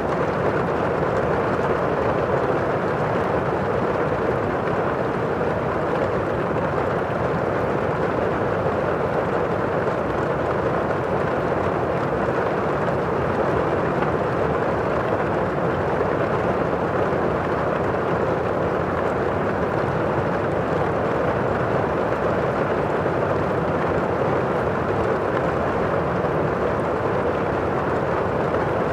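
Steady storm ambience of heavy rain, an even unbroken hiss with no thunderclap.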